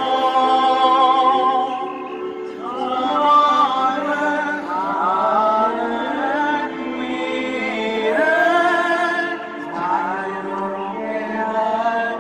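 A slow song sung by voices together, choir-like, with sustained, wavering notes.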